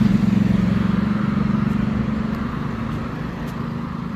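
A car driving by on the road, its steady engine hum and tyre noise slowly fading as it moves away.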